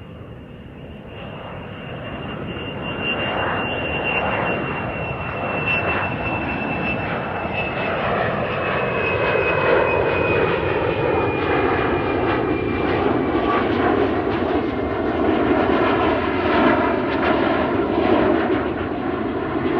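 Airplane flying overhead: its engine noise grows louder over the first several seconds and then stays loud, with a high whine that slowly falls in pitch through the first half.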